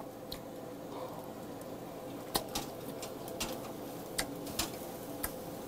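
A man chewing a mouthful of grilled marinated pork rib close to the microphone: soft scattered mouth clicks, about seven in all, over a faint steady hum.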